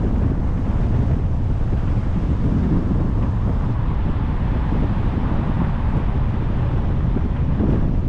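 Wind buffeting a microphone on a moving car: a steady, dense low rumble that never lets up.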